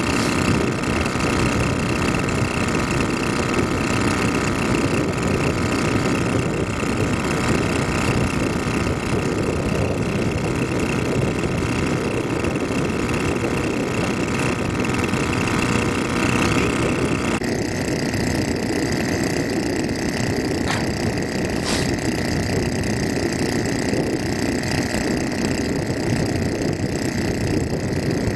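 Engine running steadily, with no change in speed. The sound changes abruptly about two-thirds of the way through.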